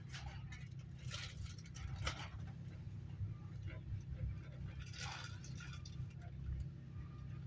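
Steady low hum inside a coach of a High Speed Train (HST 125), with a few short rustling or scraping noises about one, two and five seconds in.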